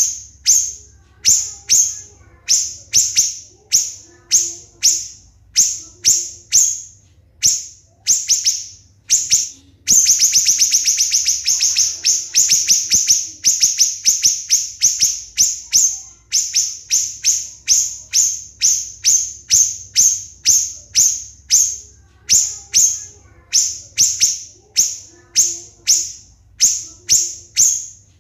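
Siri-siri songbird singing a shrill, high-pitched song of sharp, clipped notes that drop in pitch, about two a second and often in pairs. About ten seconds in it breaks into a fast rapid-fire trill lasting a few seconds: the close-set 'tembakan' bursts prized as training material for competition songbirds.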